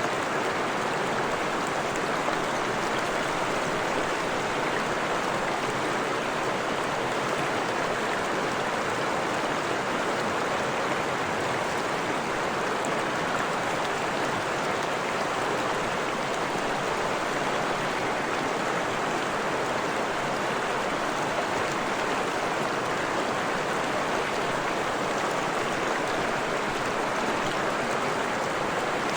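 Freshwater forest stream running steadily, an even rush of flowing water.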